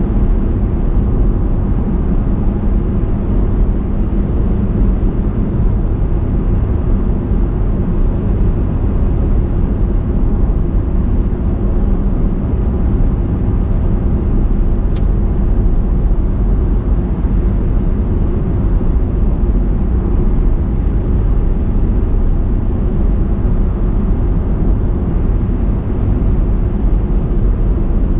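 Steady road noise of a car driving at an even speed, a constant low rumble of tyres and engine, with one faint click about halfway through.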